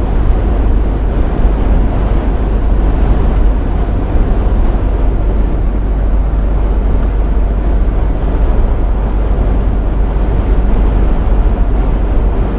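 Truck driving at speed: a steady drone of engine, tyres and wind, with a heavy low rumble and no change through the stretch.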